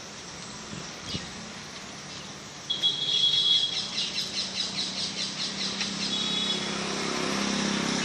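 A songbird calling loudly about three seconds in: a short held high note, then a quick run of repeated chirps, about three a second, ending about six seconds in with another brief held note. Road traffic hums low underneath and grows louder near the end.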